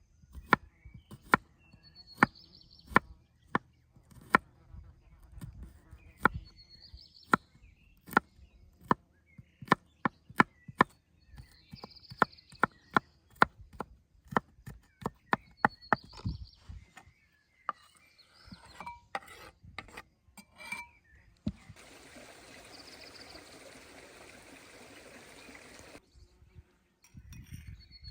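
Knife chopping on a wooden cutting board: sharp, irregular strokes, about one or two a second, for the first twenty seconds or so. About three-quarters of the way in they give way to a steady hiss that lasts about four seconds and stops abruptly.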